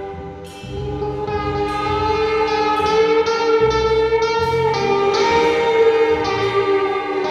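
Live band music: layered, long-held notes that change every second or so over a pulsing bass.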